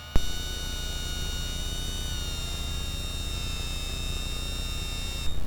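Piper's electric landing-gear pump whining as the wheels extend, starting with a click and stopping about five seconds in, over the steady drone of the engine.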